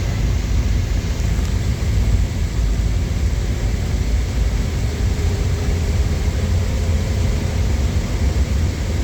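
Lorry on the move: a steady, heavy low rumble of engine and road noise.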